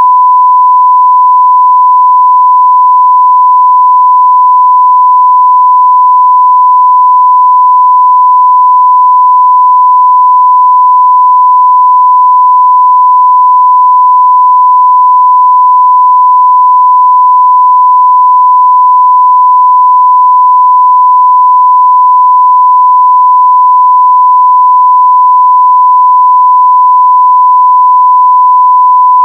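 A continuous 1 kHz sine-wave test tone at full level: one pure, steady pitch that does not change.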